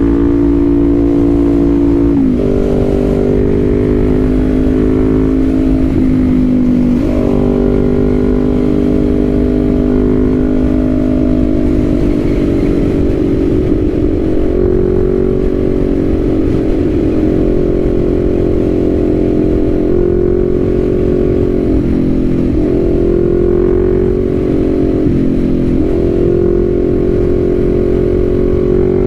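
Kawasaki Z400's parallel-twin engine running steadily under way, its pitch dipping briefly about four times and picking up again, as at gear changes or throttle lifts, over a steady low rumble of wind and road noise.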